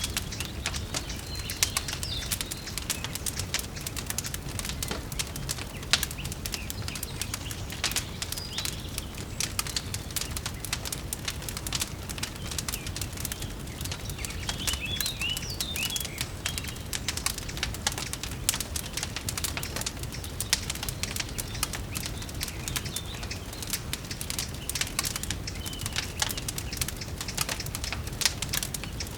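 Wood fire crackling in a fireplace, dense irregular pops and snaps over a low steady rumble, with a few short bird chirps now and then.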